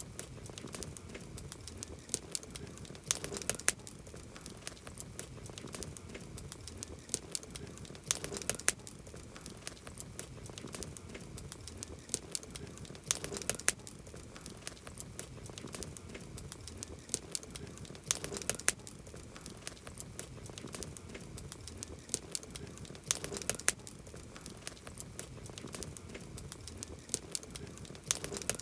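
Wood campfire crackling: a constant scatter of small pops and ticks, with a louder cluster of snaps about every five seconds.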